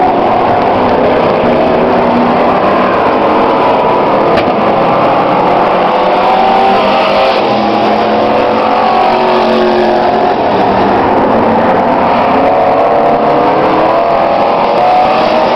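Several racing truck engines running at once at a demolition-truck race, their overlapping notes rising and falling as they rev around the track. The sound is loud and continuous.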